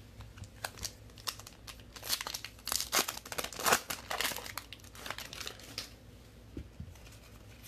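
Plastic trading card pack wrapper being torn open and crinkled in the hands, a dense run of crackling rustles that is loudest in the middle and dies away near the end.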